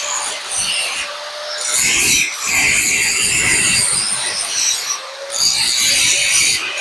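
Power sander grinding the welds on a corrugated steel window grill, a harsh, steady abrasive rasp on the metal that eases off briefly twice.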